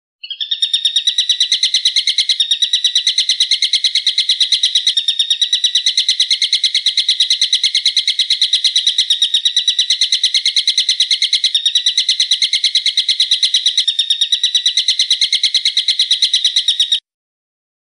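Bird call: a fast, even rapid-fire series of sharp high notes, many a second, kept up for about seventeen seconds with only a few brief hitches, then cutting off suddenly.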